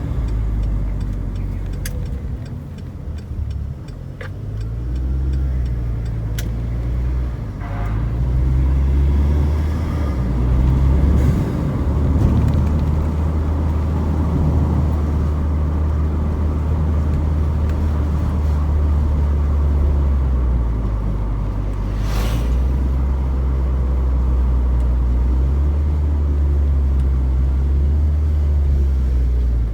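Proton Preve's engine idling on warm-up, heard through an aftermarket cat-back exhaust as a steady low drone. The drone dips briefly about twenty seconds in, and a short sharp noise follows.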